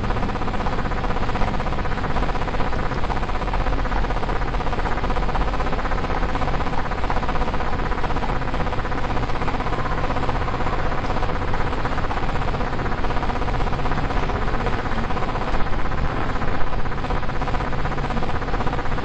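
CNC milling-engraving machine running at work: a steady machine sound holding several constant tones over an even background noise.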